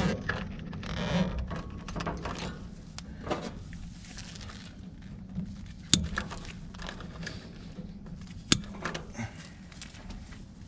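Hands handling wiring, tape and zip ties inside a heat pump cabinet: rustling and scattered small clicks, with two sharp clicks about six and eight and a half seconds in.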